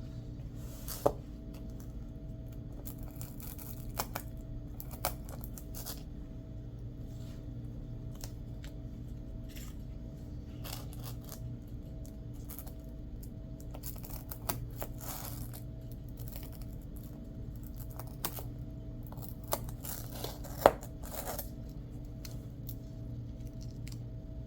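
Intermittent short rasping, tearing sounds and a few sharp clicks of Velcro and craft materials being handled at a work surface, over a steady low hum.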